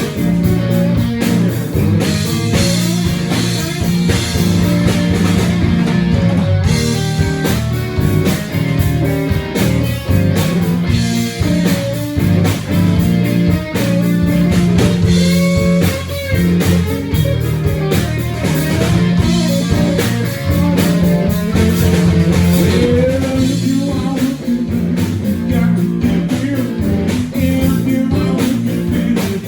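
Live rock band playing a song: guitar over bass and drums with a steady beat, and no vocal words.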